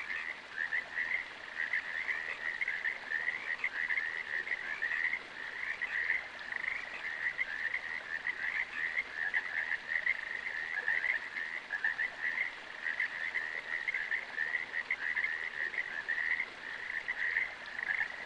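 A chorus of frogs calling steadily: many overlapping, rapidly pulsed calls at one high, even pitch.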